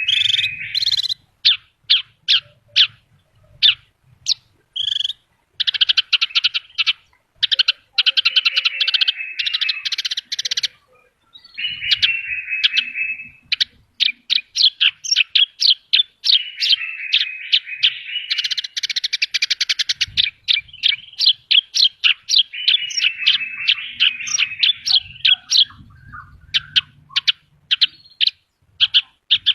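Horsfield's bush lark (branjangan) singing in a long, varied stream of rapid chirps, buzzy trills and sharp notes, a full song packed with mimicked phrases, broken by a couple of short pauses.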